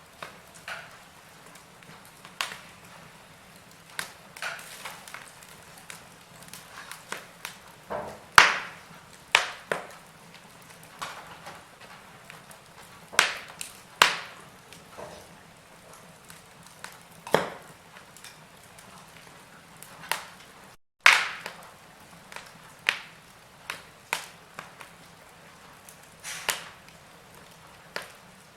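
Wood fire crackling in a fireplace: irregular sharp pops and snaps over a soft steady hiss. The sound cuts out for an instant about two-thirds of the way through and comes back with a loud pop.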